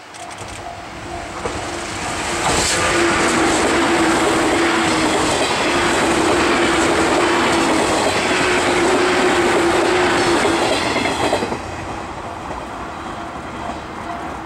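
Shinano Railway 115 series electric train of three coupled sets passing at speed: it builds over the first couple of seconds, then a loud rhythmic clatter of wheels over the rails with a steady hum underneath as the cars go by, dropping away suddenly as the last car passes and fading after.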